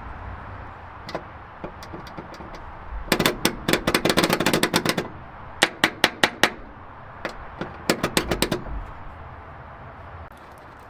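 Rapid, sharp mechanical clatter in three bursts. The longest run of clicks lasts about two seconds, starting about three seconds in. It is followed by a handful of separate clicks and then a short final run.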